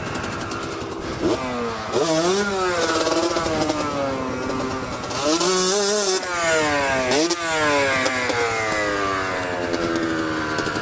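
Dual-sport motorcycle engine revving up and down repeatedly as the throttle is worked, with two short bursts of hissing noise in the middle.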